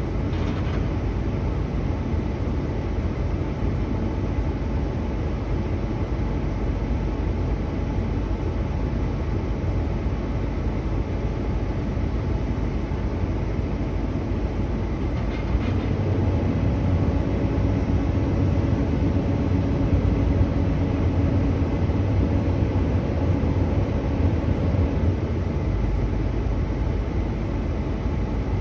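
Heavy engine running with a steady low rumble. About halfway through there is a short sharp click, then the engine's hum grows louder and steadier for some ten seconds before settling back.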